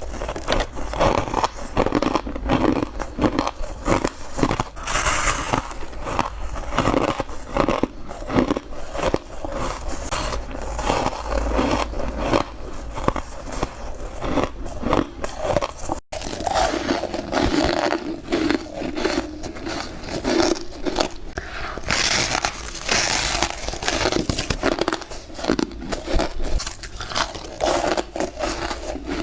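Close-miked biting and crunching of ice: a dense, irregular run of sharp crunches and crackles, broken once by a momentary gap about halfway through.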